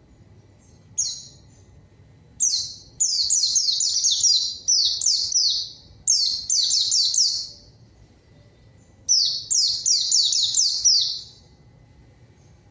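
White-eye (pleci) in vigorous rival-calling song. A single high note comes about a second in, then a long run of rapid, high, falling notes with brief breaks, and a second run near the end.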